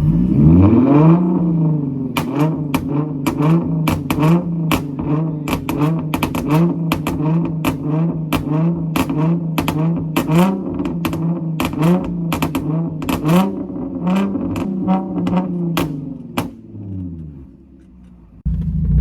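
Car engine revved over and over in quick rising-and-falling blips, with sharp pops from the exhaust, dying away near the end.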